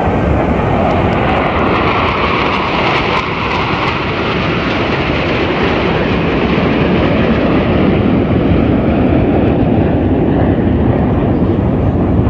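Jet aircraft flying past, a loud, continuous engine roar that turns duller, losing its hiss, from about halfway through.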